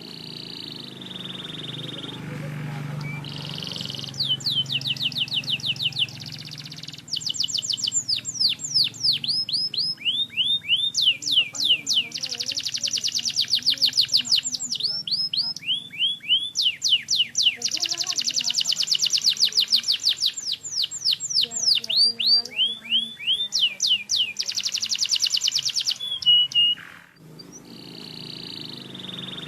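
Domestic canary singing: long rolling trills of rapid, repeated sweeping notes in phrases that change speed and pitch, starting a few seconds in and stopping near the end. A steady low hum runs underneath.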